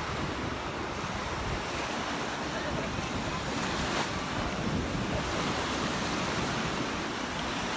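Gulf of Mexico surf breaking on the beach, a steady wash of waves, with wind buffeting the phone's microphone.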